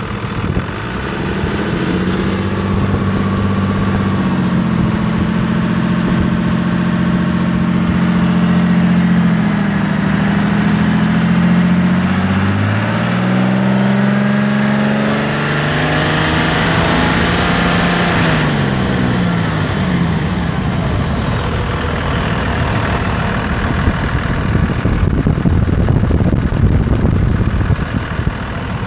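Cummins 5.9 turbo-diesel engine revved up in steps, held at speed, then dropped back to idle about two-thirds of the way through, with a faint turbo whine rising and falling with the revs. It is being run through its rpm range to find a thumping noise that the owner places toward the back of the engine.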